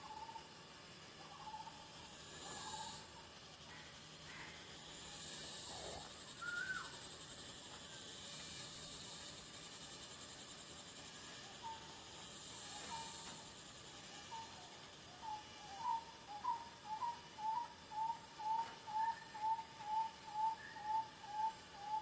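Forest ambience: a bird calls a short clear note over and over, about twice a second, the series growing louder through the second half, over insects hissing in slow swells.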